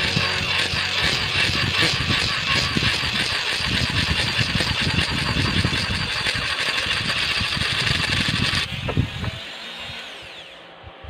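Rotary grinding tool cutting into the port of a motorcycle cylinder head, a loud steady high-pitched grinding as the port is opened out toward its target size. The grinding cuts off sharply about three-quarters of the way through, and the tool then spins down and fades.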